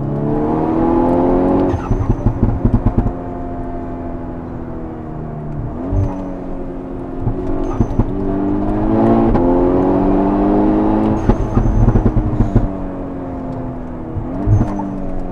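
Tuned VW Golf 6 R's turbocharged 2.0 TSI four-cylinder pulling hard twice, the engine note climbing each time. Each pull is followed by a run of sharp exhaust pops and crackles from its popcorn exhaust tune.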